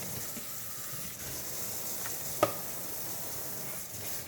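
Washing a vacuum's pre-motor filter: a steady hiss of water and brush scrubbing, with one sharp click about two and a half seconds in.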